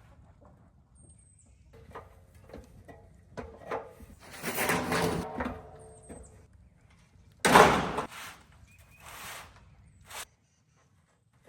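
Scattered knocks and a scraping rub, then one loud bang a little past the middle, as of hard objects being handled and set down; the sound cuts out abruptly near the end.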